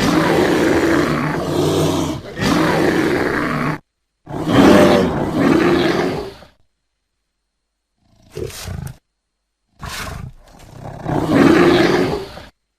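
Bear vocalisations: four separate loud, rough calls, a long one of nearly four seconds, one of about two seconds, a short one, and one of about three seconds. Each is cut off abruptly into dead silence, as in a spliced compilation.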